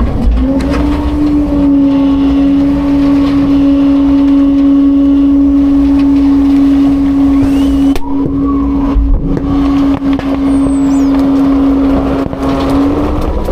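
Autocar-Heil front-load garbage truck running its hydraulics at raised engine speed: a steady, loud drone that climbs just after the start, holds, and drops back near the end, with a few knocks and clanks about eight and nine seconds in.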